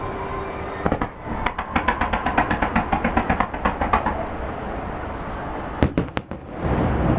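Fireworks going off: a rapid string of crackling reports, about eight a second, for a couple of seconds, then a few single sharp bangs near the end.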